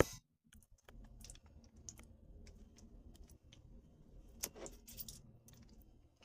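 Faint, irregular small clicks and ticks of hands working soaked tamarind pulp, pressing the seeds out, with a louder cluster of clicks about two-thirds of the way through.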